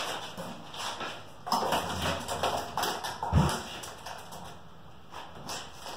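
Clattering and knocking as a dirt bike is handled and lifted into place, with one heavy thump about halfway through.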